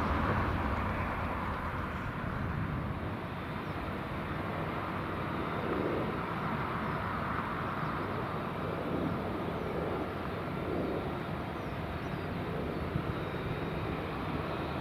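Jet engines of a departing Boeing 787-8 Dreamliner, a steady rumble and hiss that is a little louder at the start and then eases off.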